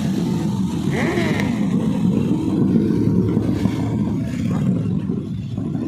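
Motor vehicle engines running: a rough, steady rumble, with a brief higher tone about a second in.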